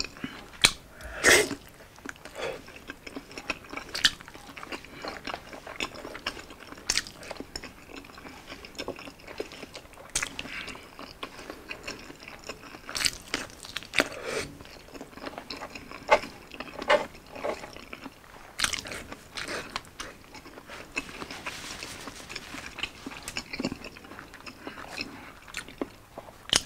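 Close-miked chewing and biting of fried egg and Hungarian sausage dipped in sriracha sauce, with irregular sharp mouth clicks about every second.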